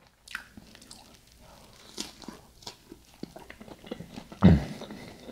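A person chewing a mouthful of soft-shell ground beef taco close to the microphone, with many small wet clicks of the mouth. About four and a half seconds in there is a short louder burst of voice.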